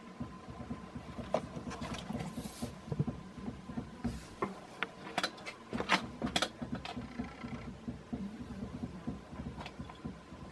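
Irregular clicks, taps and knocks of a handheld camera being moved and handled, over a faint steady hum; the clicks come thickest in the middle.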